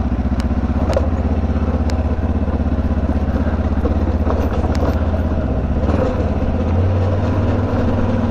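Kawasaki KLE500's parallel-twin engine running at low speed on a rough dirt track, with a few sharp knocks in the first five seconds. The engine gets a little louder about seven seconds in.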